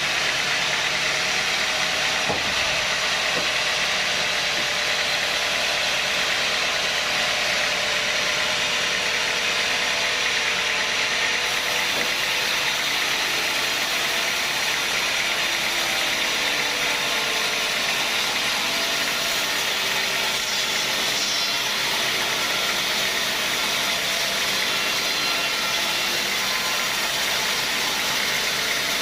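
Sawmill machinery running steadily with a loud, even noise and no breaks.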